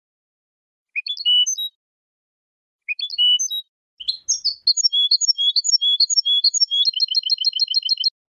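European goldfinch singing: two short phrases, then a longer run of varied high notes that ends in a fast trill of about ten repeated notes a second and cuts off abruptly.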